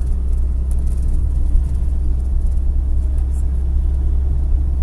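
Steady low road rumble of a moving passenger van, engine and tyre noise, heard from inside the cabin.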